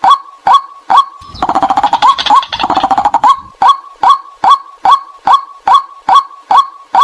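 White-breasted waterhen calling: a steady, monotonous run of short 'kwak' notes, a little over two a second, as used to lure the bird. From about a second in, a fast rattling, gurgling chatter joins the notes for about two seconds.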